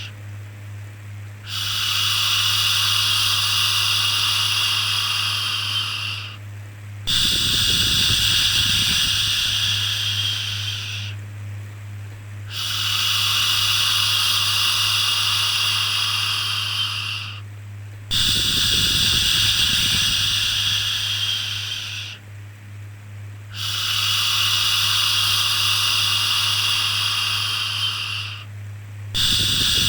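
A long, steady 'shhh' shushing sound repeated about five times, each lasting four to five seconds with a short pause between, over a constant low hum: white-noise shushing meant to calm a baby.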